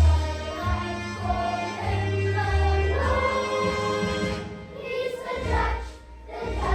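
A children's choir singing a song in unison over an accompaniment with a prominent bass line.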